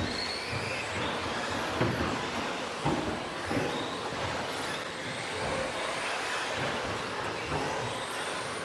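Electric 2WD RC stadium trucks with 13.5-turn brushless motors racing. High motor whines rise and fall as the trucks pass, over a steady haze of tyre and track noise, with a couple of short thumps about two and three seconds in.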